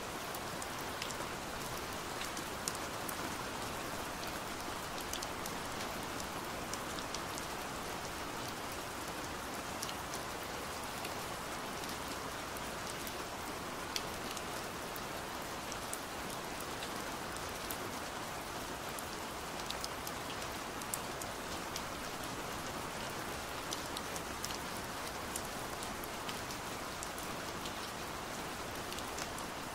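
Steady rain on a window: a constant hiss with scattered sharp ticks of single drops striking the glass.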